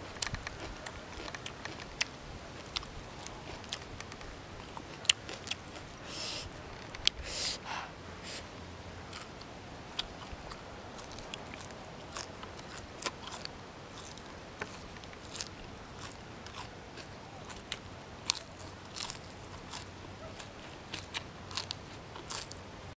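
A person chewing and biting into fresh leafy greens up close: irregular crisp crunches and wet mouth clicks, with two longer crunches about six and seven seconds in.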